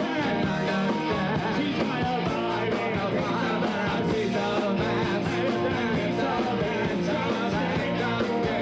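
Live rock band performing, with singing over driving rock backing.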